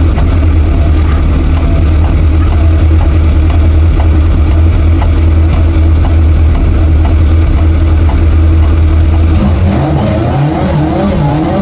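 A modified car's engine running with a steady, deep note. About nine seconds in, the sound changes to a wavering, rising engine note with more hiss as an engine revs.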